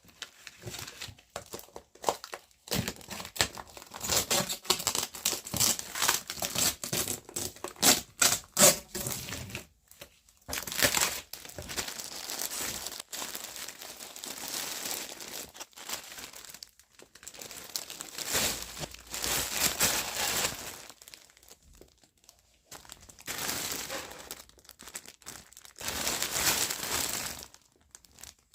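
Parcel packaging being handled and opened: irregular crinkling and rustling with some tearing, in bursts with short pauses.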